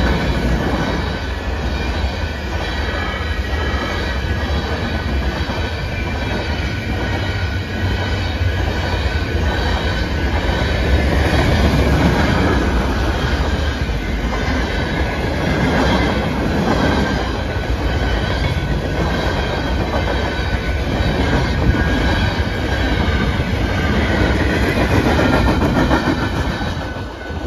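Norfolk Southern manifest freight train's cars rolling past: a steady loud rumble and clatter of steel wheels on rail, with a faint high wheel squeal.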